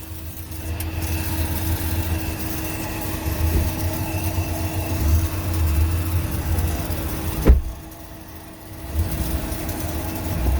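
Petrol-station car vacuum running with a steady hum while the nozzle is worked over the car, with a sharp knock about seven and a half seconds in.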